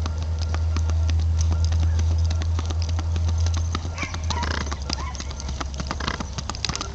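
Hooves of a Missouri Fox Trotter horse clopping in many quick, uneven beats, over a loud steady low rumble of wind on the microphone. A few short fowl-like calls come about four to five seconds in.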